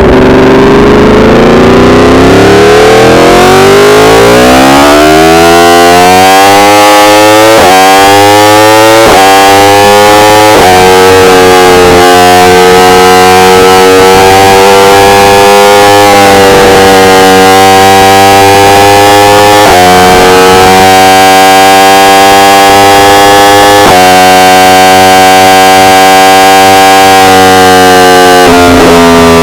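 Yamaha R1 inline-four engine pulling hard, its pitch climbing and then stepping through several quick upshifts in the first ten seconds or so, before holding a steady high-revving cruise with small throttle changes. The recording is very loud and distorted by clipping.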